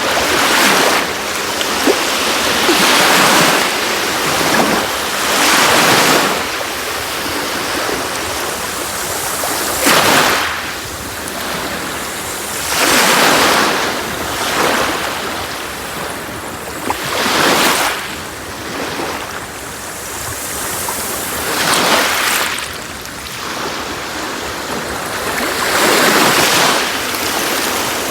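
Sea waves washing onto a beach, a steady rush of surf that swells with each wave about every three to four seconds.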